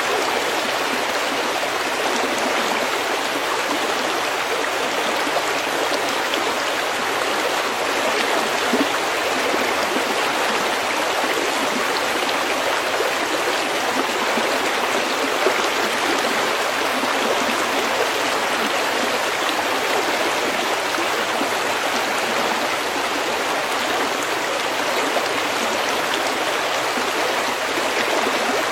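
A small stream flowing steadily over pebbles: an even, unbroken rushing of water.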